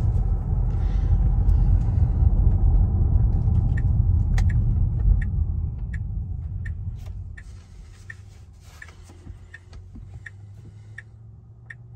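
Road and tyre rumble inside the cabin of a Tesla Model X Plaid while driving, dying away about seven seconds in as the car slows. A regular light ticking, about one and a half a second, runs through the second half.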